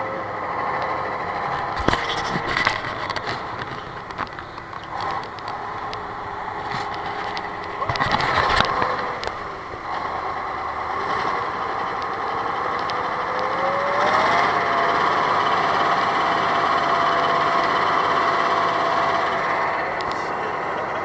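Motor vehicle engine running. About two-thirds of the way through, its pitch rises and holds higher as the engine speeds up. A few knocks and rattles come earlier, around two seconds in and again around eight seconds in.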